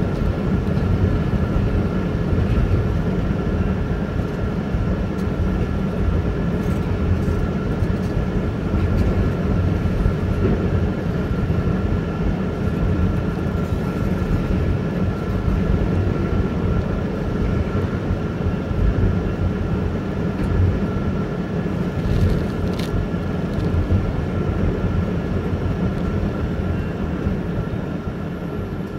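Double-stack container train's well cars rolling past, a steady rumble of steel wheels on rail, heard from inside a vehicle with the heater running. It eases off a little near the end as the last cars pass.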